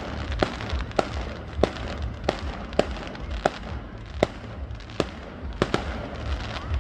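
Fireworks going off in a rapid series of sharp bangs, about two a second.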